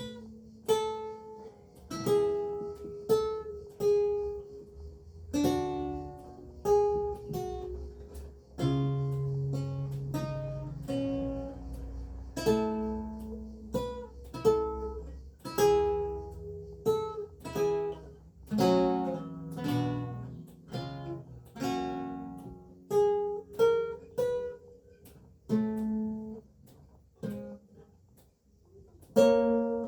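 Renaissance lute with gut strings played slowly, single plucked notes and chords ringing and dying away one after another.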